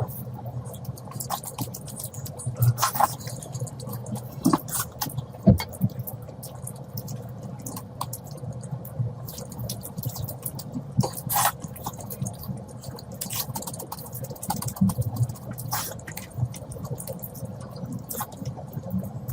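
Close-miked eating of curry: wet chewing and mouth smacks, with irregular sticky clicks and squelches.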